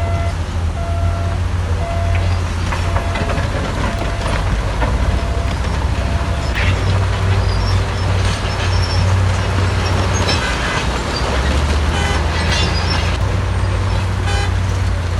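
Heavy diesel earthmoving machinery running steadily under load. A reversing alarm beeps about once a second for the first few seconds. Scattered metallic clanks and knocks come in the second half.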